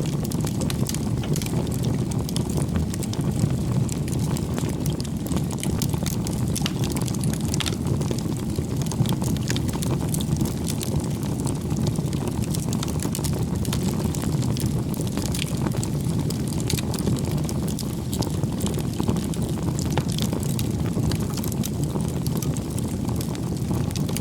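Bonfire of firewood burning: a steady low rush of flame with frequent small crackles and pops from the wood.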